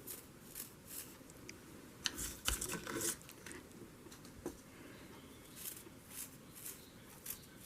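Faint, irregular light ticks and taps, about two a second, with a busier cluster about two to three seconds in: ink being splattered from a paintbrush.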